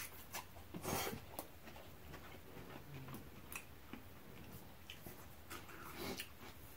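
Quiet close-up eating sounds: chewing a mouthful of pad thai noodles, with scattered small clicks of chopsticks against the plastic takeout container. There are brief louder mouth noises about a second in and near six seconds.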